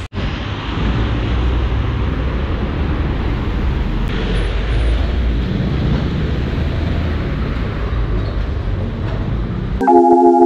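Steady road-traffic noise, a dense rumble strongest in the low end. Near the end it cuts abruptly to electronic organ music.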